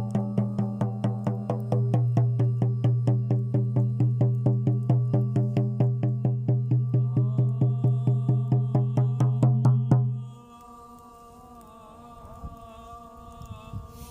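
Rhythmic drumming music, an even beat of about four strokes a second over a steady low drone. It stops abruptly about ten seconds in, leaving only fainter sustained tones.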